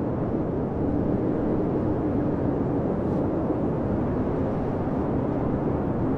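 Blizzard wind blowing steadily, a low, even rush of noise with a faint held howl in it.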